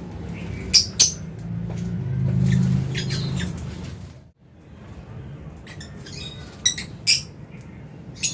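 Lovebirds giving sharp, high chirps and squawks, a loud pair about a second in and another near seven seconds, with softer calls between. A low steady hum runs under the first half and drops away about halfway through.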